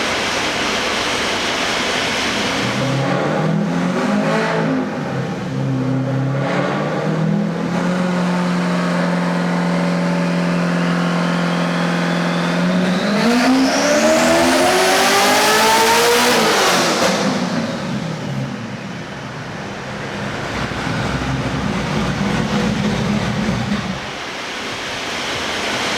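Rear-mount twin-turbo V8 of a C6 Corvette Z06 on a chassis dyno. It revs up, holds a steady speed, then makes a wide-open pull that rises in pitch with a high whine climbing alongside. It lets off about 17 seconds in and coasts down. This is a low-boost first pull on wastegate pressure, about 8.5 psi.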